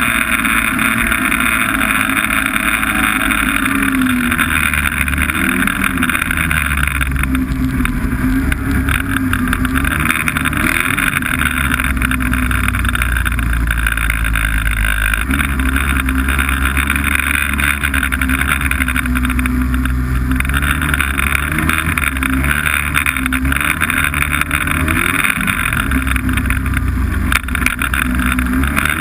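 Snowmobile engine running under way, its pitch rising and falling a little as the throttle changes, over a steady rushing noise.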